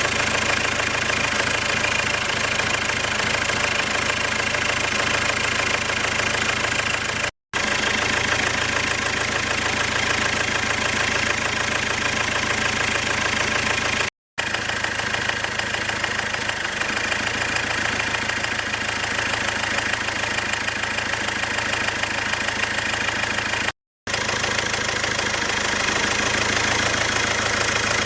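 Ford Transit engine idling hot with a steady, rapid knock, which the owner takes for a knocking injector in the fourth cylinder; the hydraulic lifters and rockers have been checked and found fine. The sound cuts out briefly three times.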